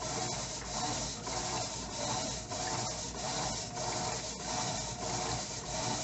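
Electrolux LTE09 top-loading washing machine running its final stage, with a rhythmic swishing and rubbing that swells a little under twice a second.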